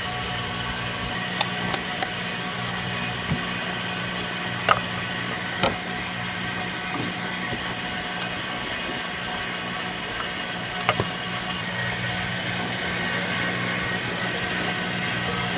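Steady low hum and hiss, broken by a few short, sharp clicks and taps of small parts or tools being handled.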